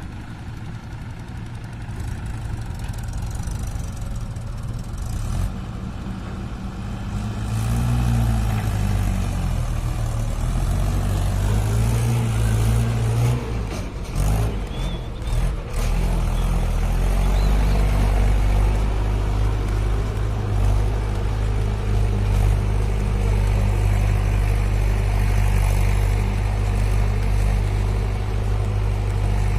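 Mahindra 575 DI tractor's diesel engine running under load. Its pitch rises and falls a couple of times in the first half, then holds steady and louder through the second half.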